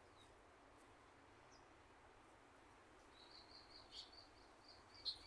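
Faint bird calls: after about three seconds of near quiet, a quick run of short high chirps, with a couple of stronger notes near four seconds and near the end.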